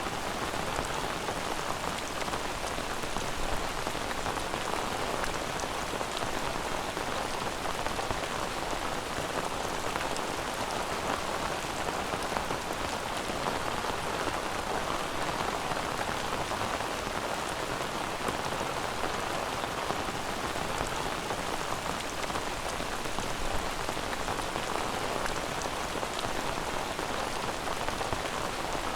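Steady rain falling on a surface, an even hiss with fine scattered drop ticks and no breaks.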